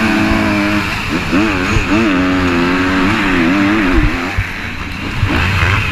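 Motocross bike engines on track, held at a steady pitch at first, then revving up and down repeatedly as the riders work the throttle.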